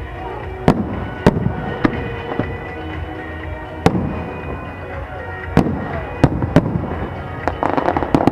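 Aerial fireworks shells bursting in single sharp bangs, a second or so apart, then a quick run of crackling pops near the end, with music playing underneath.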